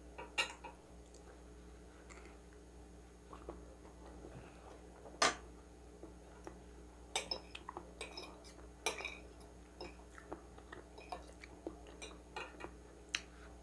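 A metal fork clinks and scrapes on a ceramic plate in scattered sharp clicks, the loudest about five seconds in, with close-up chewing between.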